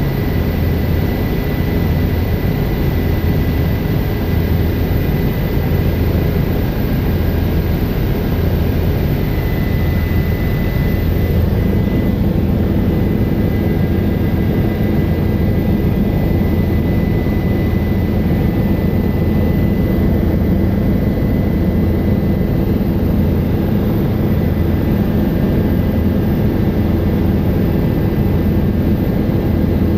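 Helicopter in flight heard from inside the passenger cabin: a loud, steady engine and rotor drone with a continuous high whine.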